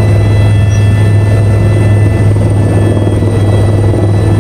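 Helicopter heard from inside the cabin: a loud, steady low drone of rotor and engine, with faint steady high-pitched whines over it.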